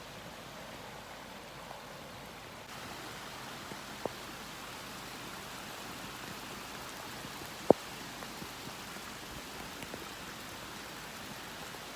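Heavy rain pouring steadily, the hiss growing slightly louder a few seconds in. Two sharp taps stand out, about 4 and 8 seconds in.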